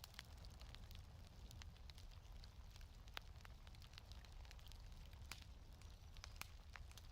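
Faint fireplace crackling: irregular small pops and snaps over a steady low rumble.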